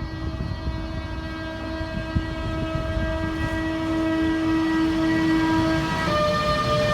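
EP20 electric locomotive's horn sounding one long, steady chord that changes pitch about six seconds in, over the low rumble of the approaching train.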